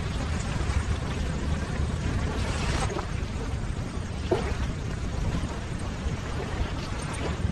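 Ocean surf: a steady wash of waves with a deep rumble, and a couple of brief brighter splashes partway through.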